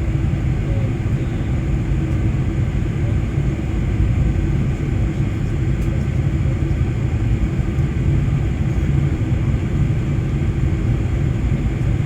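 Steady low rumble of a Boeing 747-400 with its engines running, even throughout with no rise or fall in pitch.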